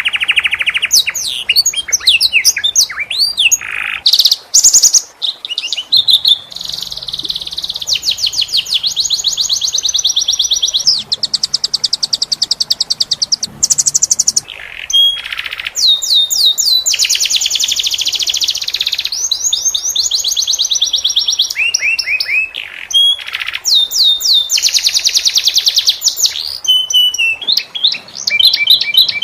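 Domestic canary singing a long, continuous song of fast rolling trills and rapidly repeated high notes, broken only by brief pauses.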